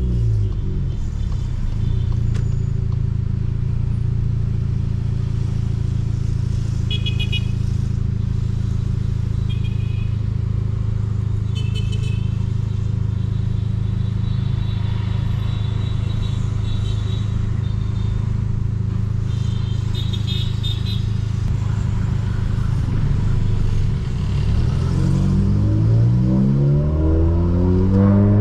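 Volkswagen Polo GTS with a Stage 2 tune and sport exhaust, its turbocharged four-cylinder settling from a lift-off into a long stretch at steady revs, then climbing under acceleration near the end before the revs drop off sharply.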